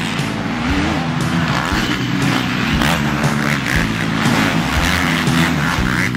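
Motocross bike engines revving and running on the track, several engines rising and falling in pitch over the noise of the bikes.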